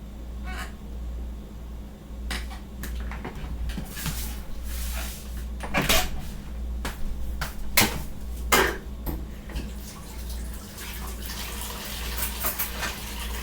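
Kitchen dishes and utensils clattering, with scattered sharp clinks, the loudest about six and eight seconds in, over a steady low hum.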